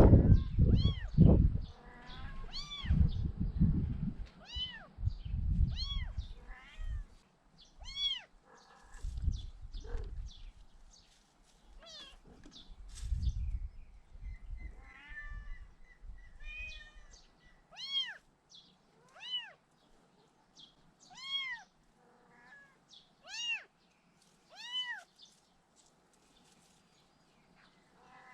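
Month-old kitten mewing over and over: high-pitched mews that rise and fall, coming about once a second and a half in the second half. Low rumbling and bumping noise runs under the mews through roughly the first half and is loudest at the very start.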